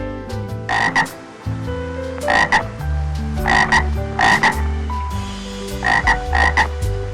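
Short, rasping animal calls, often two in quick succession, repeating every second or two over background music with a steady bass line.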